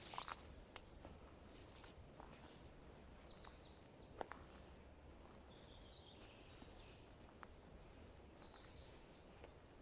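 Faint forest birdsong: a songbird sings two phrases of quick repeated high notes that slide downward, each about a second and a half long, the second about five seconds after the first. A few faint sharp clicks or snaps sound near the start and about four seconds in.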